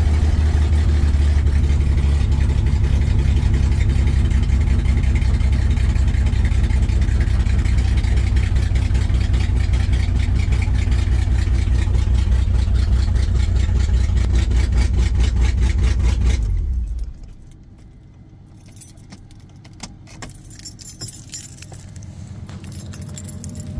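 1987 Dodge Dakota's V6 engine idling steadily, freshly started after some effort, then shut off about 16 seconds in. Afterwards a few light clicks.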